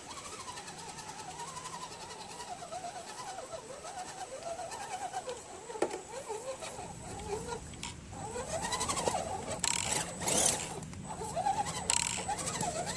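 Electric motor and gear drive of a Redcat Gen7 RC rock crawler whining, the pitch rising and falling as the throttle is worked while it climbs. It gets louder in the second half, with a few knocks and scrapes as the truck clambers over obstacles.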